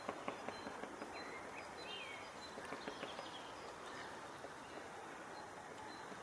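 Woodpecker pecking at wood: irregular single taps, mostly in the first three seconds, not a fast drumming roll. Short high chirps of small birds come in between, over a steady outdoor hiss.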